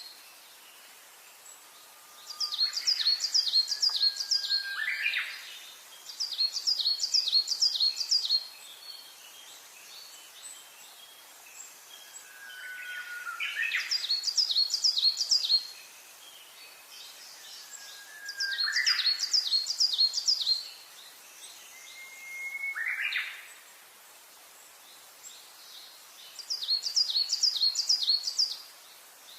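A songbird singing, about five phrases of rapid high trilled notes a few seconds apart, with lower sliding whistled notes mixed in, over a faint steady background hiss.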